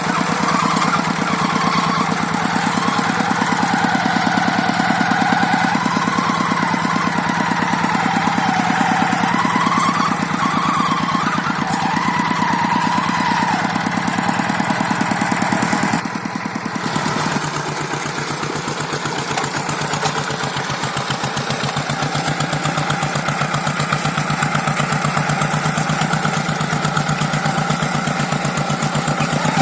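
A rice-field tractor's engine running steadily, with a brief dip about sixteen seconds in, after which it settles at a slightly lower speed. A wavering higher tone runs over it for the first half.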